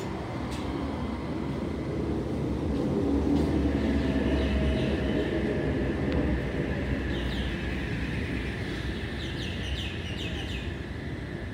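Sydney Trains double-deck electric train moving past along the platform: a steady rumble of wheels and motors that builds over the first few seconds, then eases. In the second half a thin high whine and a run of short high-pitched squeals ride over it.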